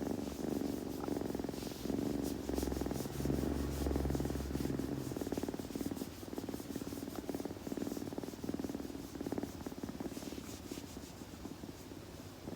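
Kitten purring close to the microphone, a steady pulsing rumble, with rough rasping strokes of its tongue as it grooms its fur.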